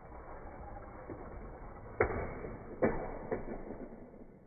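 Muffled clatter of plastic LEGO toy cars colliding, with three sharp knocks about two, three and three and a half seconds in. The first knock is the loudest.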